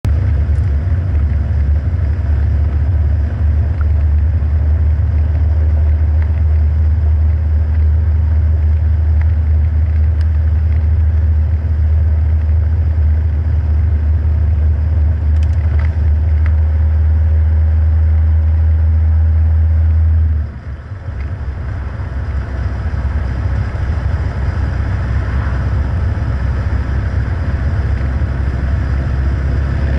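Westfield sports car with a Ford 1.8 Zetec four-cylinder engine under way, heard from a camera on the bonnet: a steady low drone of engine and rushing air. About two-thirds through the level drops suddenly, then builds gradually again with a faintly rising engine note.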